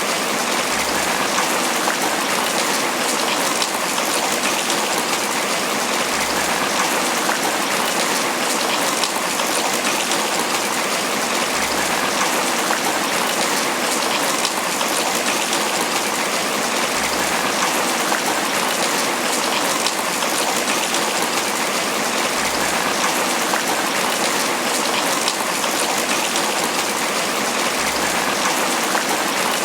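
Steady tropical rain falling on banana leaves: a dense, even hiss of rain with countless individual drops pattering on the leaves.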